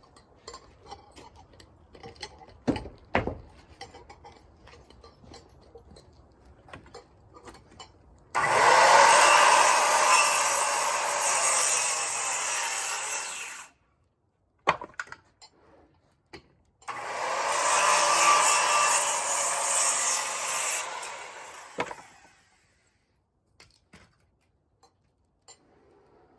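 Power saw cutting a pressure-treated deck board, twice: each cut starts abruptly and runs about five seconds, and the second one trails off as the blade winds down. Light knocks and clicks from handling the lumber come before the cuts.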